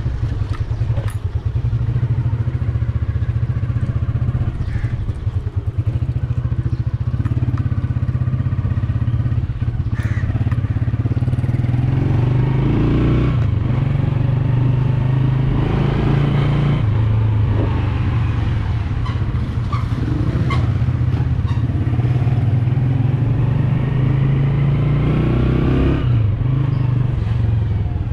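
Yamaha YBR125G motorcycle's single-cylinder four-stroke engine running while riding. The pitch rises and falls several times in the second half as the throttle opens and closes, with a few short clicks and knocks along the way.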